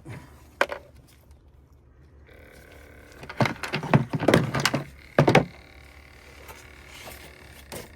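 A door being worked and gear handled: a click, then a run of knocks and rattles and a sharp thunk about five seconds in.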